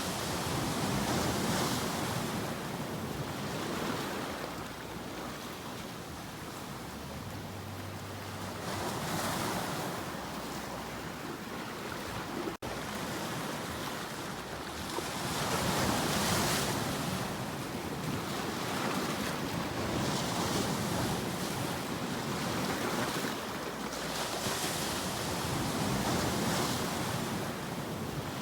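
Ocean waves breaking and washing on the shore, the surf swelling and ebbing every few seconds. There is a momentary dropout in the sound about halfway through.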